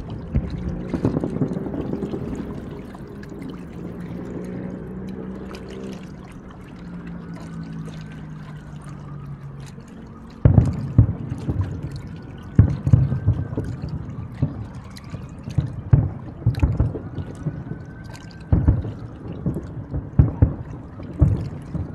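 Aerial fireworks shells bursting: a boom right at the start, then a low droning with steady tones that slowly sink in pitch, and from about halfway through a rapid, irregular run of sharp booms and crackles as a new volley of shells breaks.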